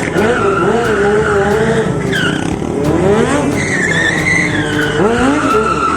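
Tyres squealing continuously under a vehicle sliding through a stunt maneuver, with the engine revving up in rising bursts about halfway through and again near the end.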